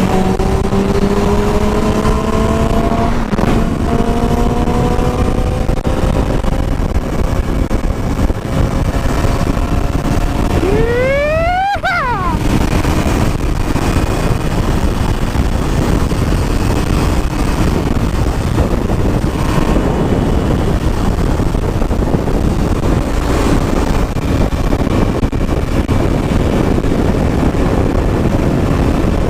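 Motorcycle riding under a steady rush of wind noise. The engine note climbs slowly over the first few seconds. About ten seconds in comes a sharp rev that rises steeply in pitch and cuts off abruptly.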